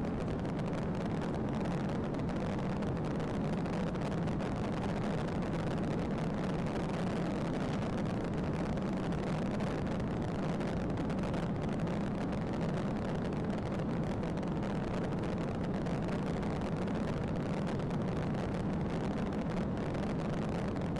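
Steady drone of a moving vehicle: a constant low hum under a wash of noise, with no change in pitch or level.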